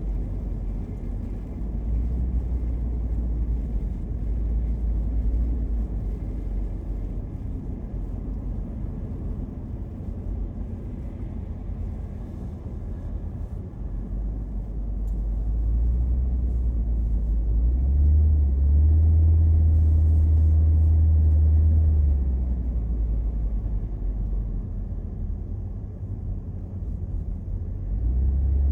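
A car driving, heard from inside the cabin as a steady low rumble of engine and road noise. It grows louder for a few seconds about two-thirds of the way through.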